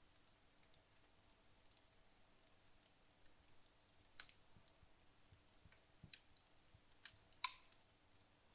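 Burning wood logs crackling: sparse, irregular sharp pops and clicks over a quiet background, the loudest pop about seven and a half seconds in.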